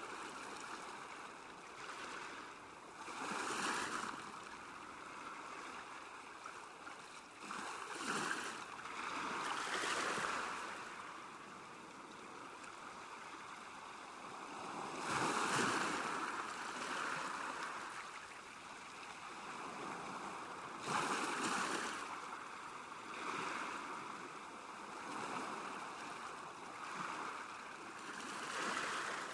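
Small waves lapping at a lakeshore, each swell of washing water rising and falling, a few seconds apart at irregular intervals, over a steady background of moving water.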